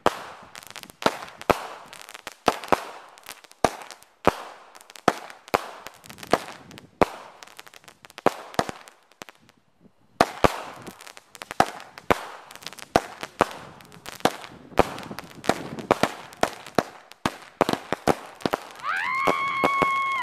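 A large consumer firework going off in a long series of sharp bangs and crackles, about one or two a second, with a short lull about halfway through. A steady high whistle starts near the end.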